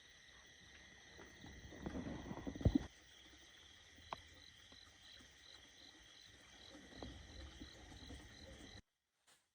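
Night insect chorus: a steady high buzz, with one insect chirping about twice a second. There is some rustling and a couple of knocks two to three seconds in, and the sound cuts off abruptly near the end.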